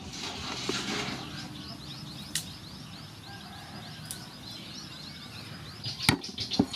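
A small bird's fast trill of short rising chirps, several a second, over outdoor background noise. Near the end come a few sharp knocks on a wooden cutting board as a garlic bulb is broken into cloves.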